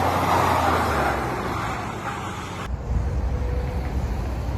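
Road vehicle and traffic noise, a steady rumble that changes abruptly about two and a half seconds in to a duller, deeper rumble.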